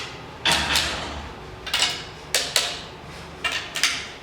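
Sharp metallic clicks and knocks from hand tools on metal, mostly in quick pairs, coming several times at irregular intervals.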